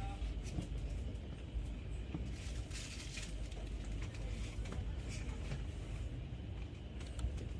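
Steady low rumble of a train standing at a station platform, with scattered clicks and short bursts of clatter.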